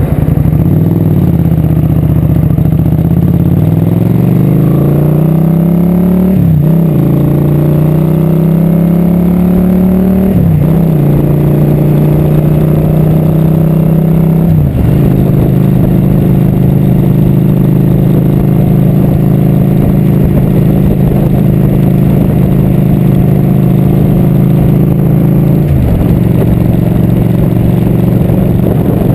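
Motorcycle engine accelerating up through the gears, its pitch climbing and then dropping at each of three upshifts in the first fifteen seconds. It then holds a steady cruise, and the pitch drops near the end as the bike eases off.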